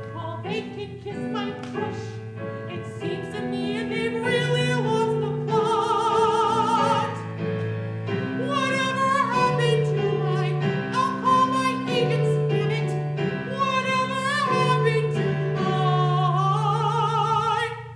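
A singer sings a high, classically trained vocal line with wide vibrato, accompanied by piano.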